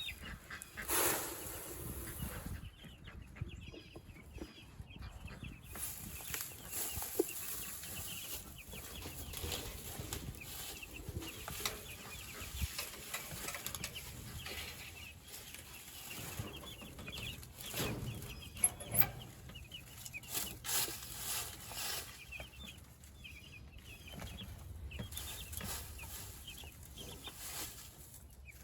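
Flock of meat chickens clucking and peeping with many short chirps, with occasional bursts of wing flapping.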